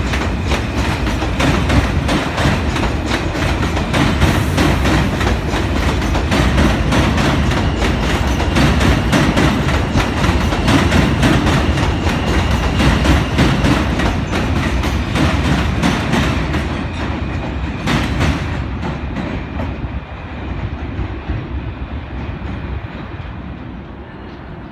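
New York City subway train running past on elevated track, wheels clattering rhythmically over the rail joints with a heavy steel rumble. The sound fades away over the last several seconds as the train moves off.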